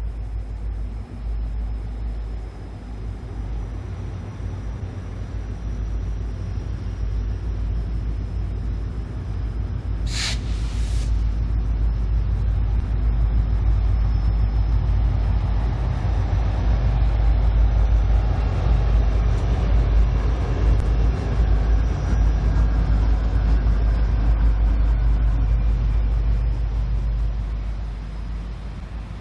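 Diesel locomotives of a departing train running past, a steady low rumble that grows louder and then fades near the end. A short hiss of air about ten seconds in.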